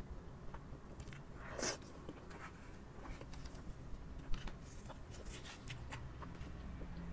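Chewing of soft cake close to a clip-on microphone: small, scattered wet mouth clicks and smacks, with one louder noise about one and a half seconds in.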